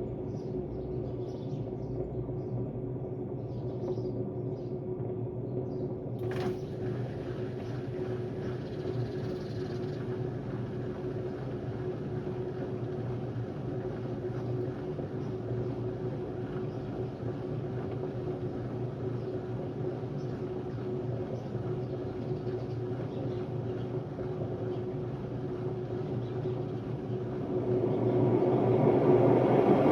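Hotpoint Ultima WMD960 washing machine running with a steady hum and a constant whine, with a click about six seconds in. Near the end it grows louder as the drum starts to speed up; the machine's drum bearings are worn.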